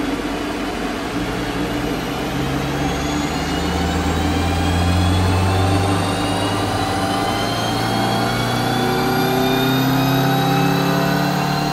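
Maruti Baleno's naturally aspirated four-cylinder petrol engine pulling hard on a chassis dynamometer during a power run on its freshly remapped ECU. The engine note climbs slowly and steadily in pitch as the revs build.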